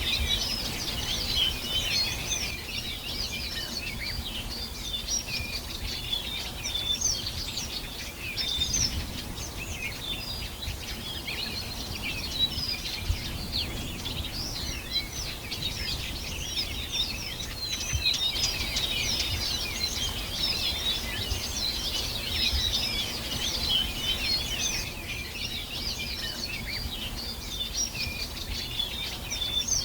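Many songbirds singing and chirping at once, a dense, continuous chorus of short high calls, over a low steady rumble.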